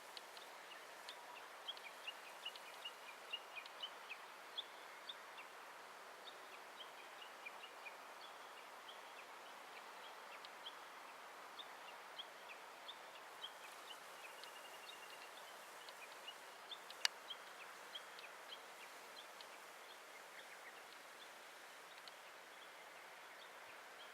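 Faint outdoor ambience with small birds chirping: many short, high chirps, busiest in the first few seconds, over a soft hiss. A single sharp click about seventeen seconds in.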